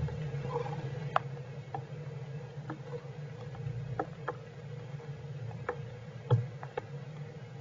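Scattered raindrops tapping in heavy rain, sharp irregular clicks about one or two a second, over a steady low hum.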